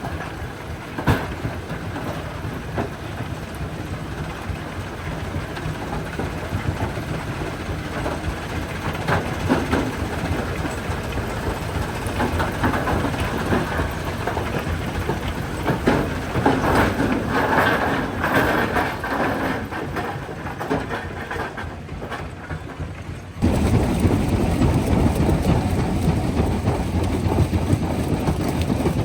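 Rock crusher running and breaking stone: a continuous heavy rumble with scattered sharp knocks and clatter. About 23 seconds in the sound switches abruptly to a louder, deeper rumble.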